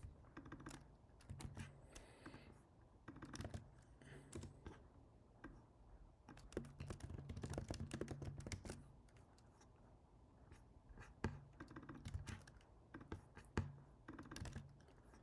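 Faint typing on a computer keyboard, key clicks coming in irregular spurts.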